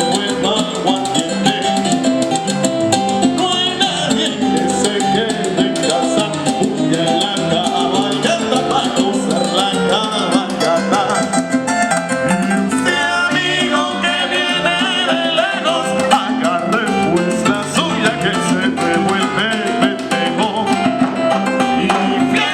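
Salsa music by a band, with a steady dance beat, plucked strings and a lead voice in places.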